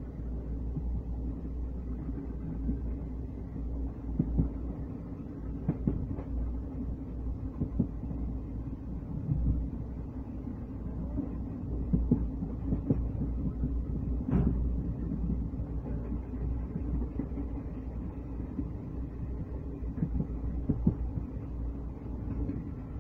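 Train running along the line, heard from on board: a steady low rumble of wheels on rails with irregular knocks, one sharper knock about halfway through.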